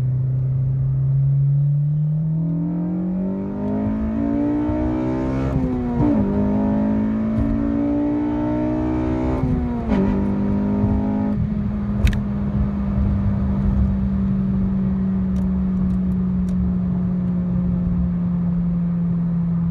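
A 2008 Honda Civic Si's K20 four-cylinder engine accelerating hard through the gears. The revs climb steadily and drop at an upshift about six seconds in, climb again and drop at a second upshift near ten seconds, then hold steady at a cruise.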